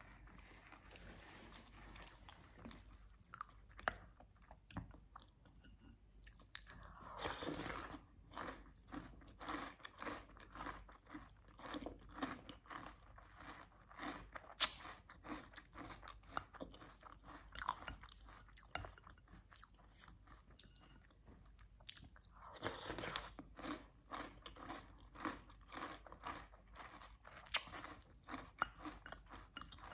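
Close-miked chewing of chocolate cereal soaked in chocolate milk: a run of small, crisp crunches and wet mouth clicks, denser in two stretches.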